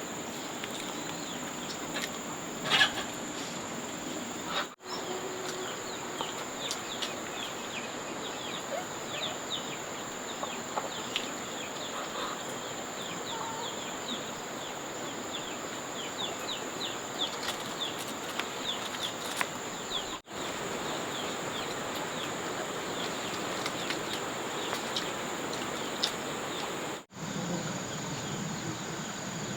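Rural outdoor ambience: a steady high-pitched insect drone under many short bird chirps, with occasional clicks. The sound drops out abruptly three times.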